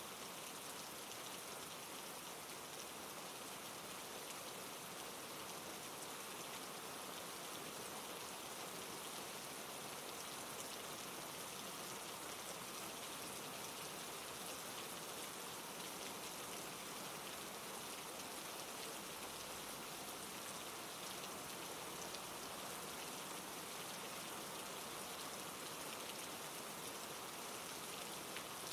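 Steady rain, an even hiss of falling drops with faint patter.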